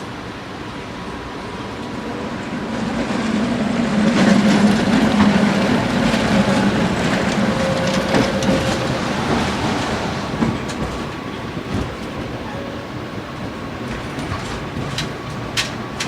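Tram passing by on its rails. Its rumble builds over the first few seconds, peaks, then slowly fades, with clicks of the wheels over the track and a few sharp clicks near the end.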